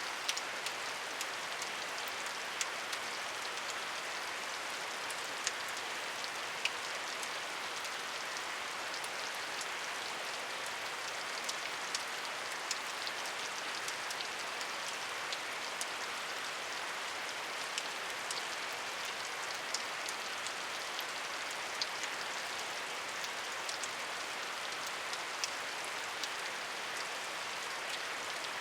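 Steady rainfall: an even hiss of rain with scattered sharper ticks of individual drops hitting a surface.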